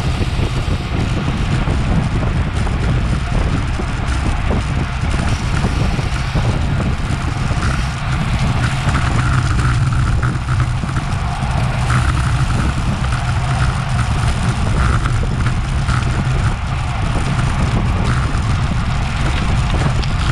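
Steady wind noise and road rumble on a bicycle-mounted action camera's microphone while riding at race speed.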